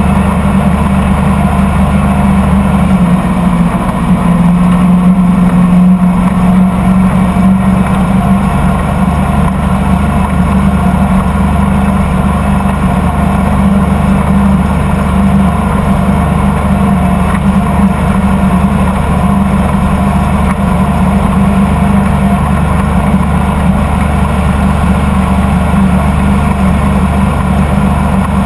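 Motorboat engine running steadily under way, with a slight shift in pitch a few seconds in.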